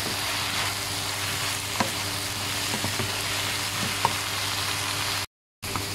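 Chopped onion, tomato and coriander sizzling in oil in a nonstick pan while being stirred with a wooden spatula, which taps the pan a few times. The sound cuts out briefly near the end.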